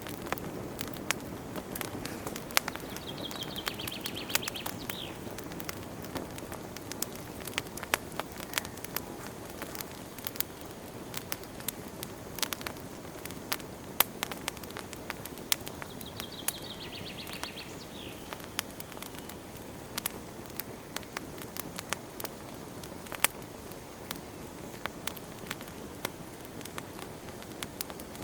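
Wood fire burning in a fireplace: a steady low hiss with frequent irregular crackles and sharp pops. Twice, a brief high trill is heard over it.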